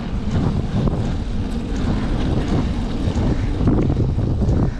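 Wind buffeting the microphone of a cyclist riding at speed: a loud, fluttering low rumble of wind noise.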